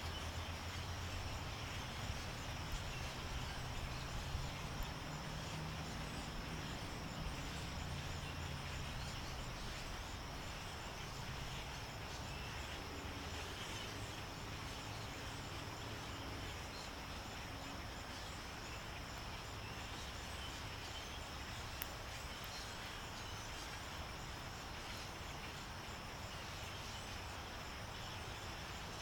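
Outdoor ambience: a steady high-pitched insect drone over an even background hiss, with a low rumble that fades after the first ten seconds or so.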